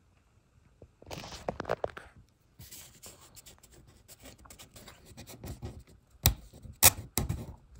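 Scratching and scraping on a surface, starting about a second in, with several sharp knocks near the end.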